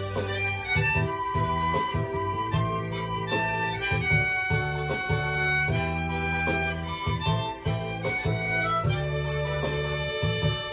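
Harmonica playing a slow song melody, held notes changing one after another, over a backing accompaniment with a sustained low bass.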